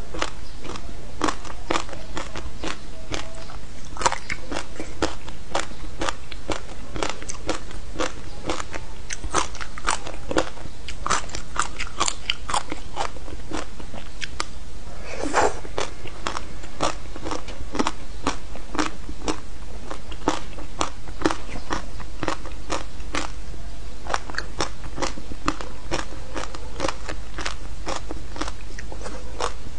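Close-miked crunching and chewing of frozen passion fruit pulp and seeds: a dense, continuous run of crisp crackling bites, with one longer, lower sound about halfway through.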